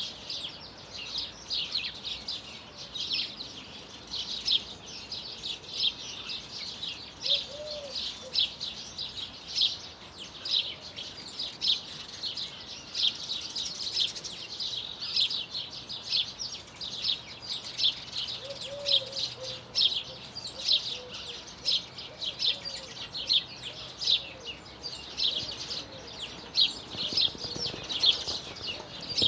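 Birds singing and chirping continuously, a dense run of many short, high notes, with a few lower calls now and then.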